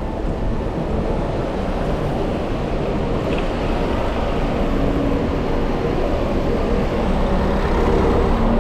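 Steady road traffic with vehicle engines running and a constant low rumble, heard from a bicycle riding in the traffic.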